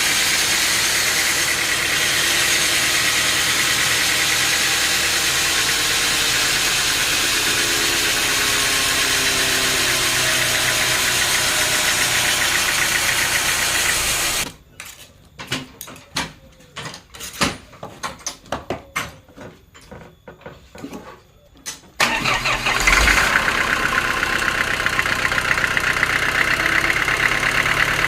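Engine-driven machinery running steadily. About halfway through it cuts off abruptly to several seconds of scattered knocks and clicks, then comes back loud again.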